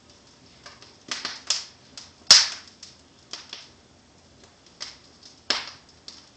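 Wood fire crackling in a fireplace: irregular sharp pops and snaps, the loudest a little over two seconds in and another strong one near the end.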